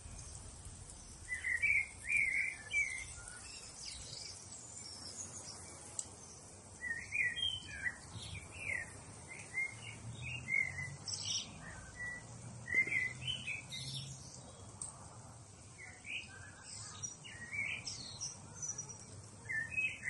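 Small birds chirping in short bursts of quick high calls, clustered every second or two, over a faint low hum.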